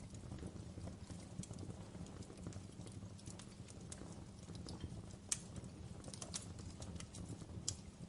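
Wood fire crackling in a fireplace: a steady low rumble of flame with scattered small crackles, and two sharper pops, one about five seconds in and one near the end.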